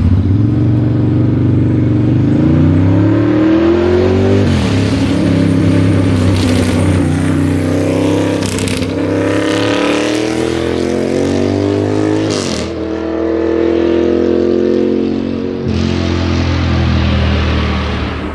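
Ducati Monster S4R's L-twin engine through a straight-piped custom exhaust, revs climbing slowly for several seconds and then dropping sharply, three times over.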